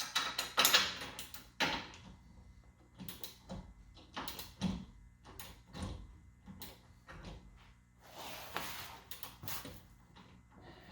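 Irregular metallic clicks and knocks from a torque wrench and tools working a shock absorber mounting bolt, with a brief scraping rush about eight seconds in. The bolt is being tightened toward 70 foot-pounds.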